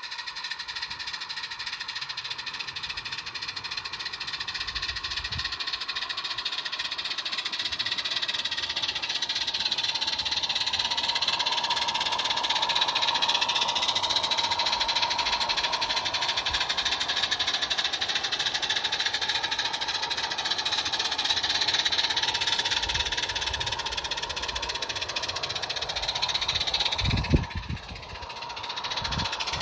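Small-scale garden railway train running on its track, a steady mechanical whirr and rattle with high ringing tones that drift slowly in pitch, getting louder towards the middle and easing off again. A few low knocks near the end.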